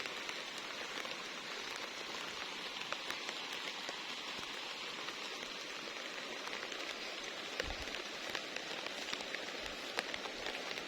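Steady rain falling on the garden, an even hiss with many small drop ticks and a few dull knocks.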